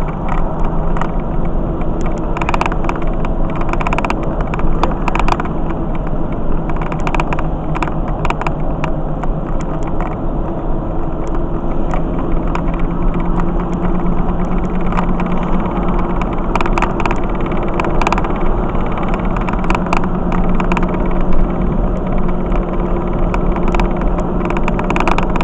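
A car being driven at road speed: steady engine hum and road noise, with scattered light clicks and knocks.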